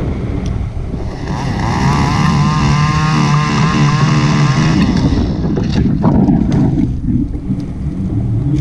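Two-stroke chainsaw running at high speed for about four seconds, starting about a second in, over heavy wind buffeting the microphone. A few sharp knocks follow near the end.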